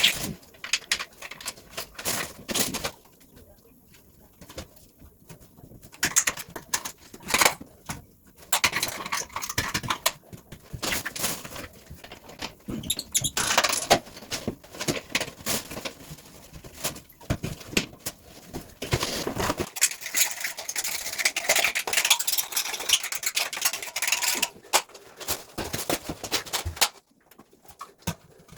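Irregular clicks, knocks and scraping from hand work with tools during a toilet repair, with short pauses and a longer stretch of rough scraping in the second half.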